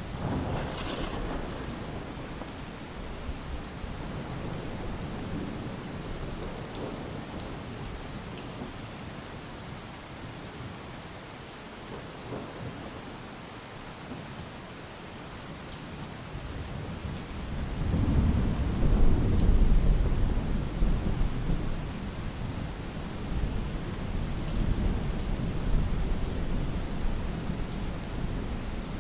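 Steady rain falling, with low rolls of thunder: a short one at the start and a bigger one that swells a little past halfway, is loudest soon after, and rumbles on more softly to the end.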